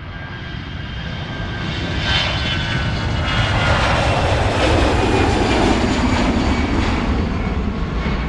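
An airplane flying past: its engine noise swells over the first few seconds, then its pitch drops as it goes by.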